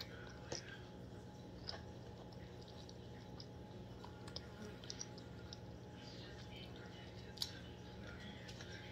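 A girl chewing snacks, with scattered small wet mouth clicks and smacks and one sharper click about seven seconds in, over a steady low hum.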